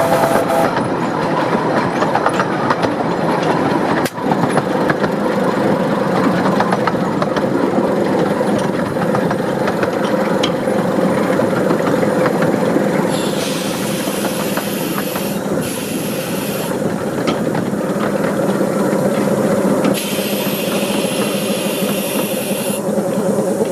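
Steam locomotive 'Northern Rock', a 15-inch gauge 2-6-2, running on the climb of Beckfoot Bank. A chime whistle blast cuts off just after the start, then the train runs steadily on. There are two spells of steam hissing, one about halfway in and one near the end.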